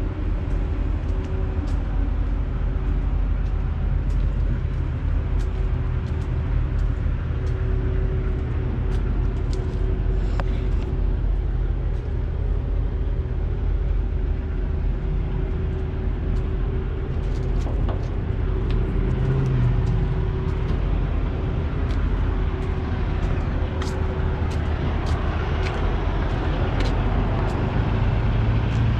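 Semi-truck engines idling steadily: a low drone with a steady hum above it, with scattered light ticks throughout.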